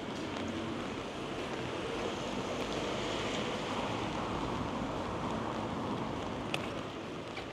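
Rainy, windy street noise: a steady rush of rain and wet pavement that swells for a few seconds in the middle and eases off again, with one sharp tick near the end.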